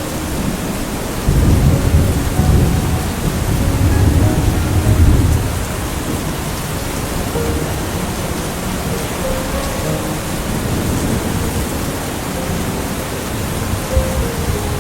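Steady rain falling, with a low rolling rumble of thunder that swells about a second in and dies away a few seconds later.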